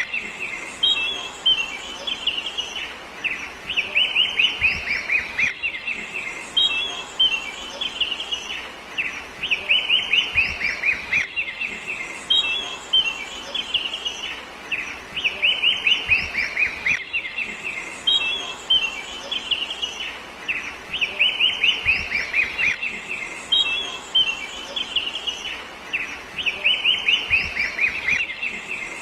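Songbird chirping: quick runs of short falling notes, the same few-second stretch of song repeating over and over with a brief break every five to six seconds.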